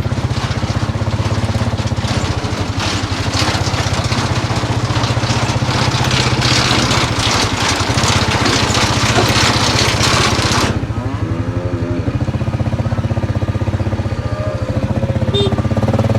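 Tractor engine running steadily while the maize wagon feeds out chopped maize silage, a dense rushing noise over the engine that cuts off suddenly about ten and a half seconds in.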